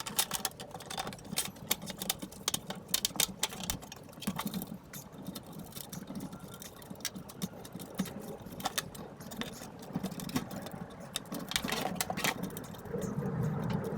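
Hands handling the tractor's sheet-metal side panel and screen: a steady run of irregular light clicks, taps and rattles, with a low rubbing of handling underneath.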